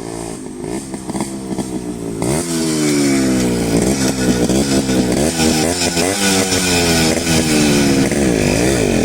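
Yamaha RX 100's two-stroke single-cylinder engine running under a rider. It gets louder about two seconds in, then revs up and down again and again.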